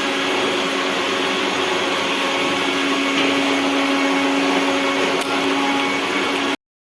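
Steady drone of an electric motor-driven appliance, with a constant hum tone over a broad rushing noise, that cuts off suddenly near the end.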